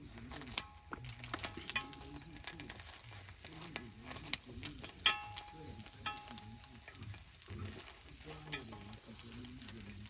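Food sizzling as it fries in a pan, with a cooking utensil repeatedly clicking and scraping against the pan; a few of the knocks ring briefly.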